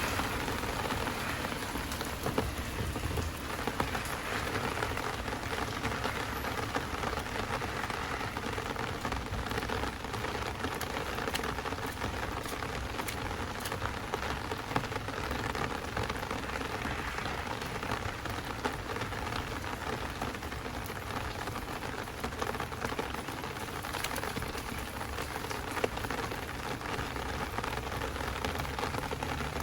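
Heavy downpour rain falling steadily and densely, with occasional louder single drop hits.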